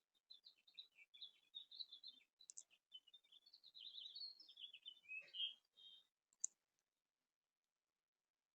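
A small songbird singing faintly: a rapid, varied jumble of short high chirps lasting about six seconds, followed by a single sharp tick.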